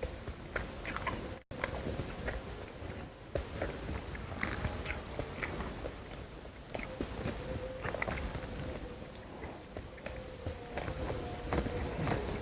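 Close-miked eating: a person biting and chewing crunchy food, with many short crackly crunches and wet mouth clicks throughout. The sound cuts out for an instant about a second and a half in, and a faint steady hum runs underneath.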